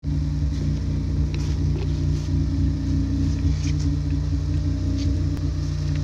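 Car engine idling steadily, a low even hum, with a few faint light clicks over it.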